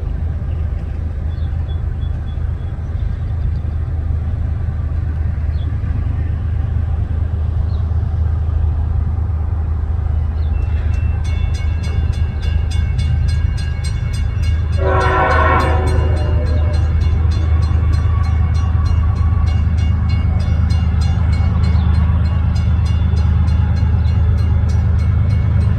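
Diesel freight train rumbling past at close range. About ten seconds in, a steady high whine with a fast ticking joins the rumble, and a short horn blast sounds around fifteen seconds in.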